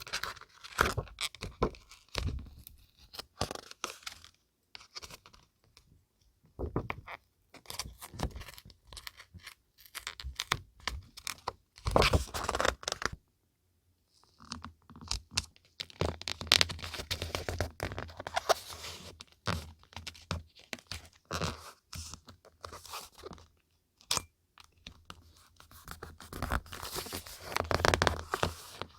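Paper and scrapbooking stationery being handled: intermittent rustling, scraping and crinkling with small sharp taps, broken by a couple of brief silent pauses.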